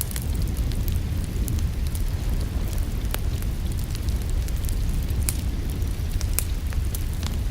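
Wood fire burning in a fireplace: a steady low rumble with irregular sharp pops and crackles scattered through it.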